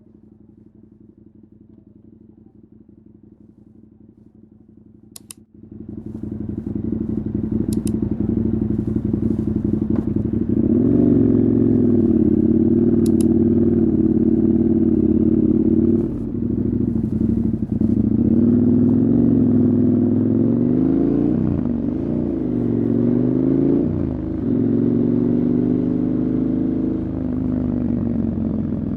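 Motorcycle engine running quietly at first, then about five seconds in it gets much louder as the bike pulls away and rides. The engine note rises and falls repeatedly with throttle and gear changes.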